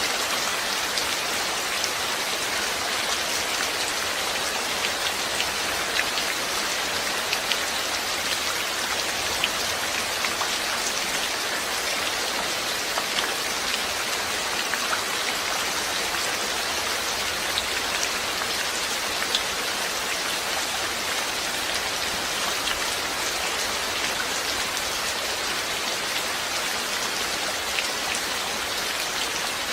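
Steady rain falling, an even hiss with many small sharp drop ticks throughout.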